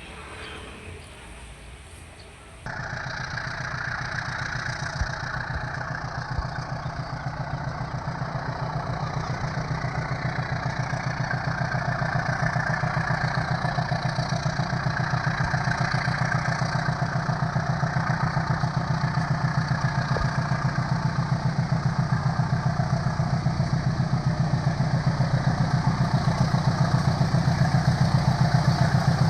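An engine running steadily with an even pulse, cutting in abruptly about three seconds in and growing gradually louder.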